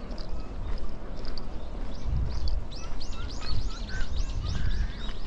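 A small bird calling: after about two and a half seconds, a fast run of high, arched notes, roughly four or five a second, with a few lower notes beneath. Low thumps sound underneath throughout.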